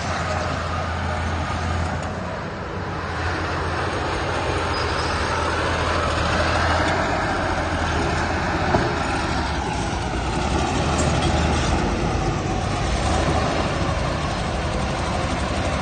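Heavy earthmoving machinery engine running steadily under load, swelling a little now and then.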